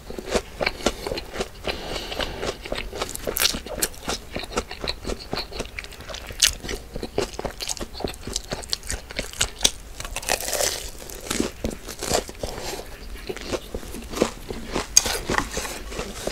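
Close-miked eating: a person biting and chewing crunchy food, with sharp crunches packed throughout and a brief louder, noisier stretch about ten seconds in.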